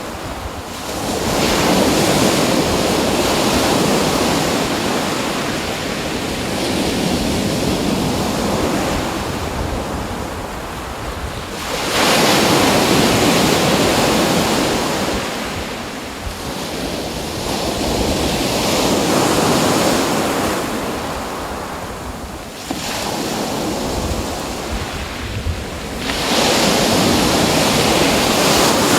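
Ocean waves washing ashore, each surge swelling and then fading, several seconds apart, with wind blowing across the microphone.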